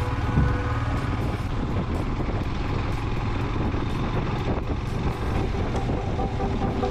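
Motorcycle riding along the road, a steady even rumble of engine and road noise.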